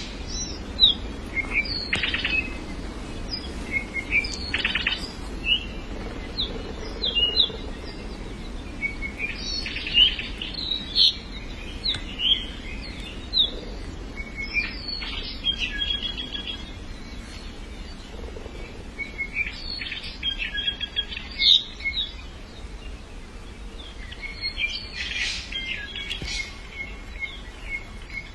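Small songbirds chirping and singing in short, repeated phrases that come in clusters every few seconds, with a quick trill about two-thirds of the way through, over a steady low background rumble.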